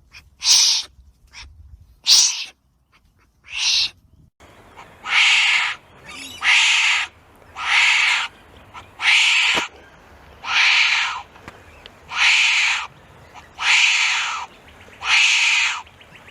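Wombat making a series of raspy, hiss-like calls, about one every second and a half. The first few are short; from about five seconds in, each call lasts most of a second.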